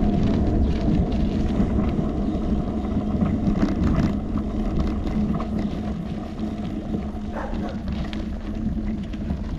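Bicycle in motion heard through a handlebar-mounted camera: a steady road and tyre rumble with small rattling clicks from the bike. A short falling squeak comes about seven seconds in.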